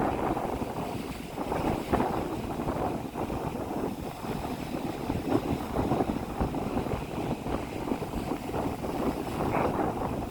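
Rough sea in strong wind: waves breaking and washing up the beach, with gusts buffeting the microphone in uneven low thumps.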